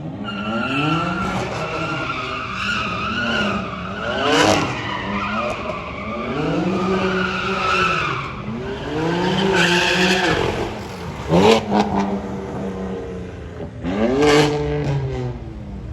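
Car engine revving hard in repeated rises and falls, with tyre squeal. A few sharp cracks come about three-quarters of the way through.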